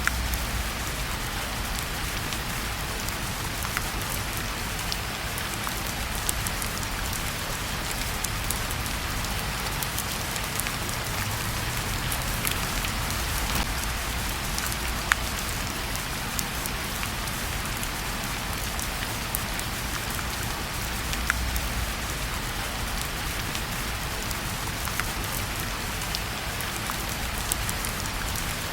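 Steady rain falling together with a fire in a fireplace: an even hiss with scattered sharp ticks and crackles over a low rumble.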